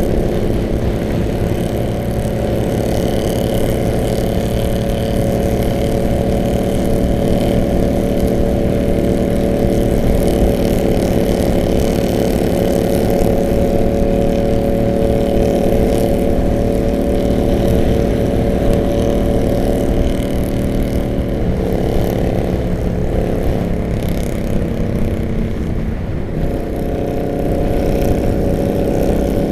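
Harley-Davidson V-twin motorcycles running at steady cruising speed, a continuous even engine note. Just past twenty seconds in, the note dips and wavers for a few seconds, then settles back to steady.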